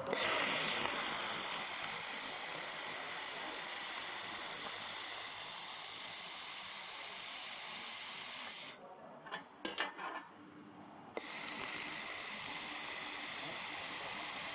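Handheld fiber laser welder firing: a steady hiss with a high whine, cutting off for about two seconds midway, with a few clicks, then starting again.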